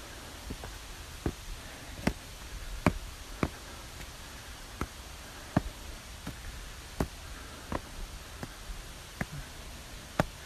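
Footsteps: a walker's steps land as short sharp knocks about every 0.7 s, uneven in strength, over a steady hiss.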